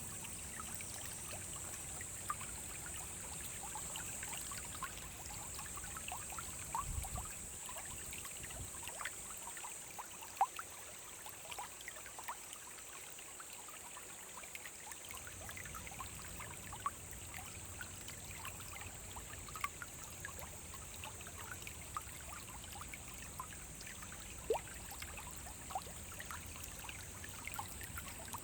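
Small forest brook running over stones: a steady rush of water with many quick plinks and gurgles scattered through it.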